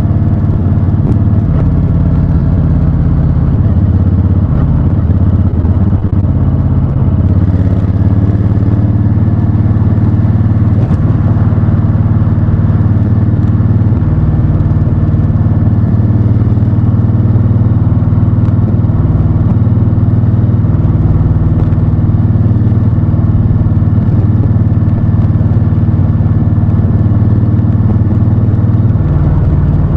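Honda Fury's 1312 cc V-twin engine running under way. It holds a steady note and steps to a new engine speed a few times.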